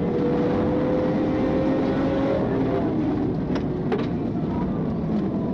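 Car engine and road noise at speed during a police pursuit, heard from inside the vehicle: a steady, loud drone with an engine tone that rises slowly over the first two seconds or so, and two faint clicks near four seconds in.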